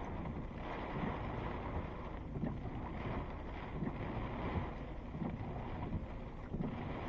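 Thunderstorm wind buffeting the microphone: a steady, gusty rush.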